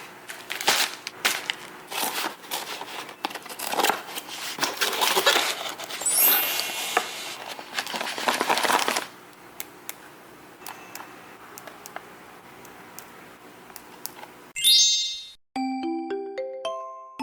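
Plastic packaging being handled, crinkled and torn open, with many sharp clicks, for the first nine seconds or so, then only a few soft taps. Near the end a bright chime sounds and a light glockenspiel-like music tune begins.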